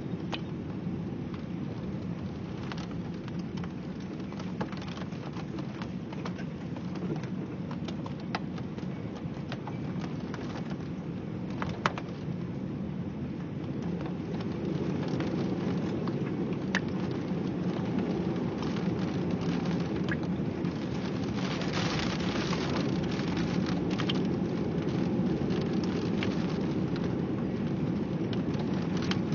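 Heavy rain falling, with many individual drops ticking sharply on a hard surface. It gets heavier about halfway through.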